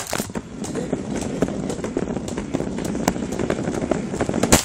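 A toy car driving over rough ground: a steady crackling rumble of its wheels and motor, full of small clattering knocks. A sharp knock comes just before it suddenly drops away near the end.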